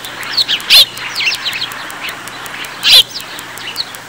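Birds chirping: repeated short, high calls, each falling in pitch, with louder calls about a second in and again near three seconds.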